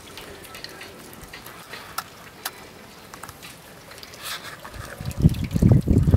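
Meltwater trickling and dripping from wet, heavy snow, with scattered sharp drip ticks. From about five seconds in, loud low rumbling buffets hit the microphone.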